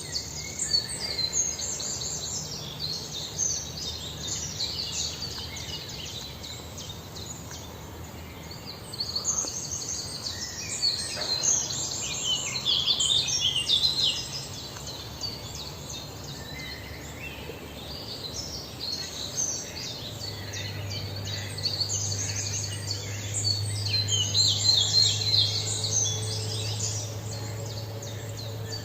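Small birds chirping busily in quick, high-pitched runs, with louder flurries at times. A steady low hum joins in about two-thirds of the way through.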